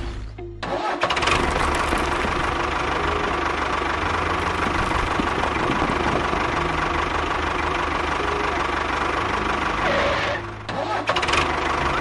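A tractor engine starts about a second in and runs steadily with a low, even throb. It drops out briefly near the end, then runs again.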